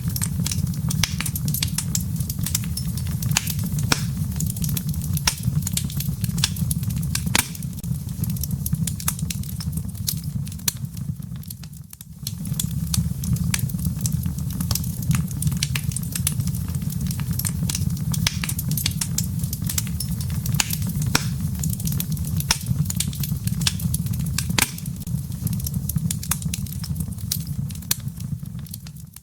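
Wood fire crackling in a fireplace: many sharp pops and snaps of burning firewood over a steady low rumble of flame. The sound dips briefly about twelve seconds in, then carries on.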